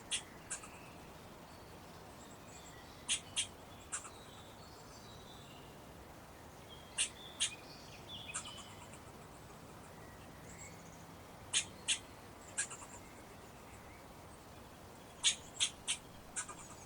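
Bird chip calls outdoors: short, sharp, high notes come in quick groups of two to four every few seconds, with faint softer twittering and a steady hiss behind them.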